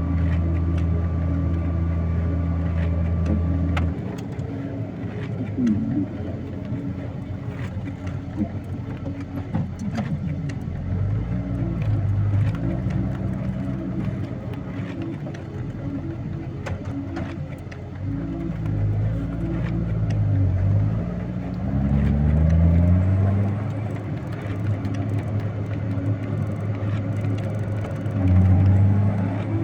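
A heavy vehicle's engine working through snow while cutting a road. It runs steadily at first, then its revs drop about four seconds in and rise and fall again and again under changing load, with occasional clicks and knocks.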